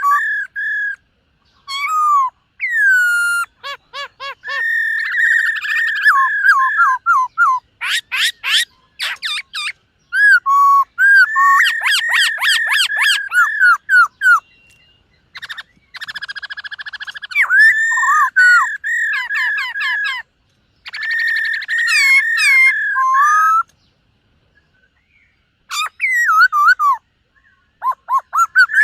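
Black-throated laughingthrush (khướu bạc má) singing loud, whistled phrases: rapid runs of repeated notes and slurred whistles, broken by short pauses and one longer pause about 24 seconds in.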